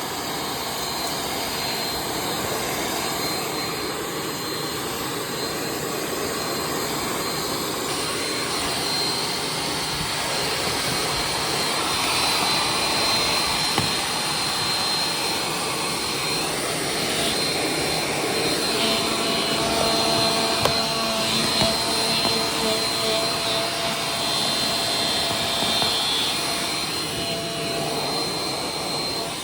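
Vacuum cleaner running steadily, a constant rushing noise with a thin high whine.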